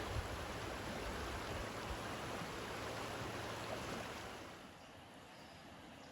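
Stream water running steadily, with a little wind rumbling on the microphone at the start; about four and a half seconds in it drops away to a much quieter background.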